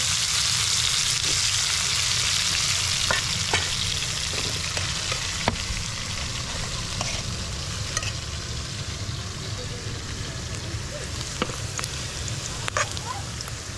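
Chicken legs sizzling in hot oil in a frying pan, a steady hiss that slowly softens, with a few sharp clicks of metal tongs against the pan as the pieces are turned. Near the end, sliced onions frying in a pot and being stirred with a metal spoon.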